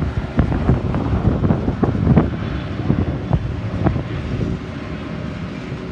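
Strong wind buffeting the microphone in uneven gusts, heavy and low.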